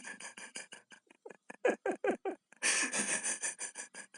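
A small animal, likely a pet, making a rapid series of short calls, about five a second, many falling in pitch, with a louder noisy burst about three seconds in.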